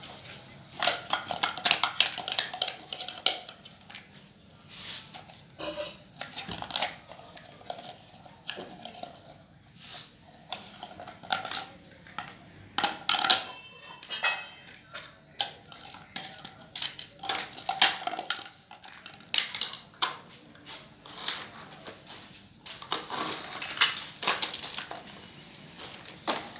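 Small hard plastic toy pieces clinking and clattering as they are handled, in irregular clusters of sharp clicks with a few brief ringing tones.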